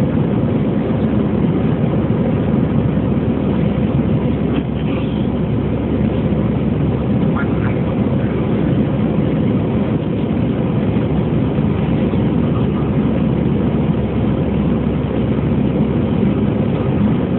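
Steady, dense low jet noise of an Airbus A320-214's CFM56 engines at takeoff power, heard inside the passenger cabin.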